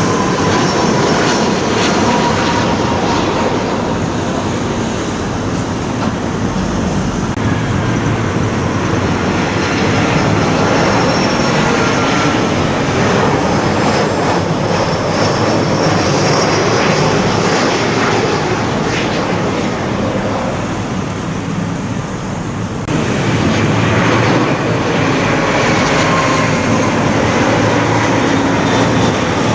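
Jet airliner engines passing low overhead on landing approach: a loud, steady rush with a high engine whine that slowly falls in pitch as the aircraft goes by. Just before the end the sound cuts abruptly to another approaching jet.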